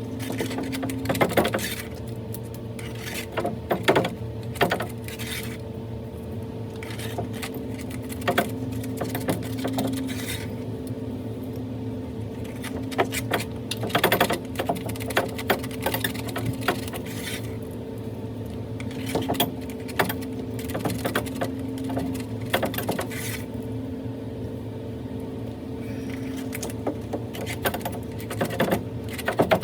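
Irregular metallic clinks, taps and scrapes of hand tools working broken rusty cast-iron debris out of a drain pipe, over a steady low hum.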